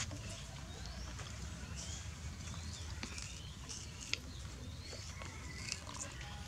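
Small birds chirping in the background, short rising and falling chirps through the whole stretch, over a low steady rumble, with a few sharp clicks.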